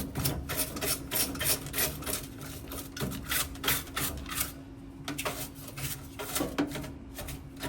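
A small stiff HVAC cleaning brush scrubbing dust off the inside of a dirty furnace/air-handler cabinet: quick, rasping back-and-forth strokes, several a second, with brief pauses.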